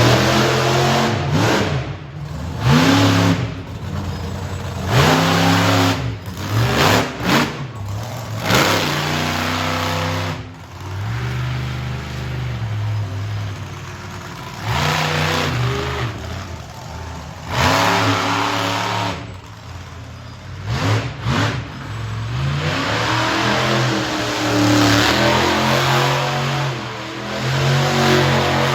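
Monster truck engine revving hard in repeated bursts, pitch swinging up and down with brief throttle-off dips between them.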